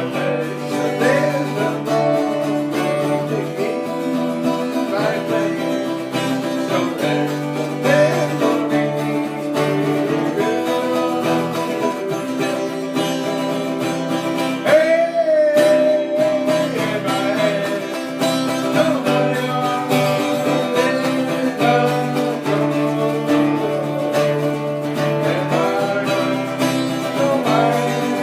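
Acoustic guitar music: steady chords with a melody line bending above them.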